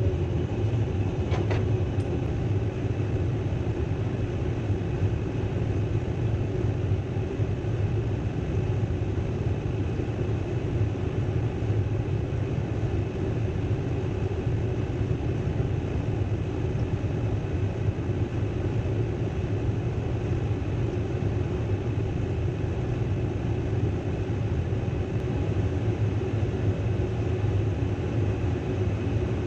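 Furnace running and heating, a steady even rumble with a low hum.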